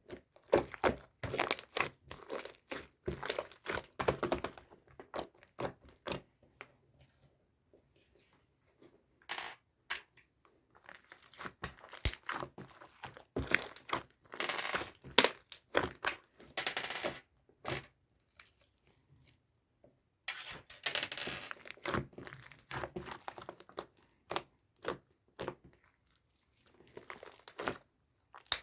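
Slime being squeezed, stretched and pressed by hand, giving bursts of sticky crackling, popping and tearing sounds with short quiet pauses between handlings.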